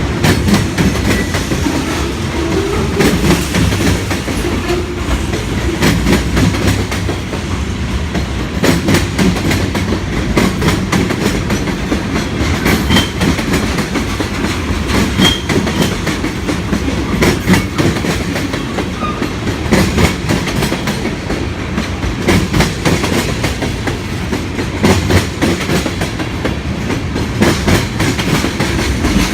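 Cars of a manifest freight train rolling past: a steady rumble of steel wheels, with a dense, irregular clatter as the wheels cross rail joints.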